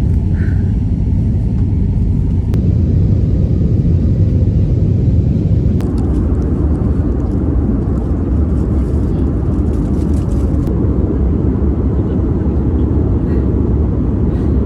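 Steady low rumble of a vehicle in motion, with some added hiss from about six seconds in.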